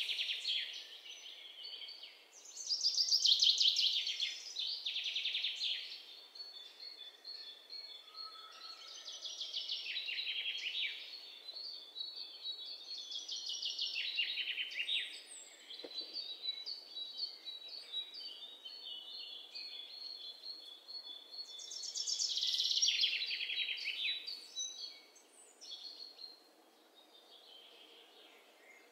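Birds chirping in repeated rapid trills, in bursts of a second or two, with a thin high trill running on steadily through the middle stretch.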